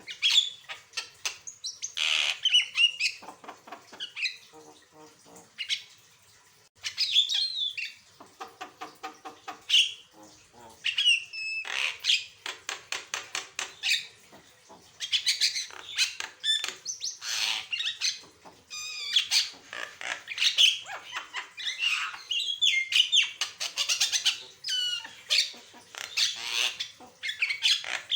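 Javan myna (jalak kebo) singing in full voice: a long, varied song of bent whistles, chirps, harsh squawks and rapid rattling click trains, with only brief pauses.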